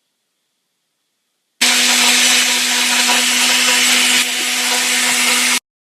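Countertop blender running, blending a protein shake of oatmeal, banana, ice and egg whites. It starts abruptly about a second and a half in with a steady whirring hum, runs for about four seconds, then cuts off abruptly.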